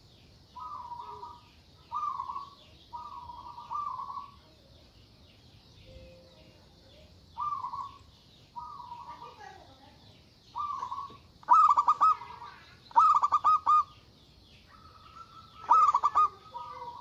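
Zebra dove (perkutut) cooing: a series of short cooing phrases at about the same pitch, separated by short pauses. From about eleven seconds in the calls become louder and break into quick rolling notes.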